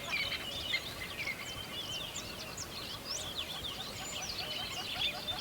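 A dense chorus of many birds chirping and calling together: overlapping short, quick calls that swoop up and down in pitch, with a steady run of lower repeated notes beneath.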